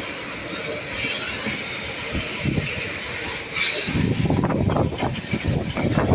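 Car-wash high-pressure spray wand hissing. A sharper, higher hiss starts a little over two seconds in and stops near the end, and a louder rough rumble joins about four seconds in.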